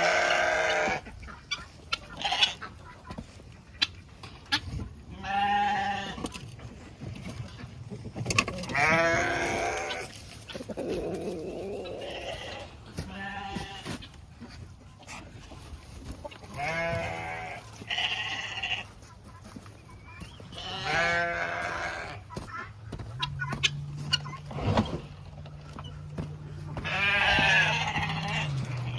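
Repeated animal calls, about nine in all, each roughly a second long with a wavering pitch.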